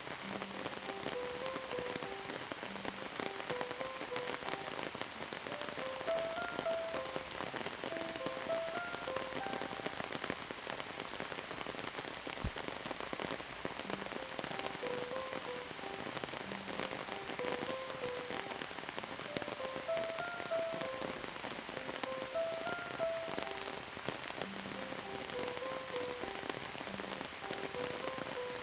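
Steady rain falling, a dense even patter of drops, with a soft, slow melody of short held notes playing over it.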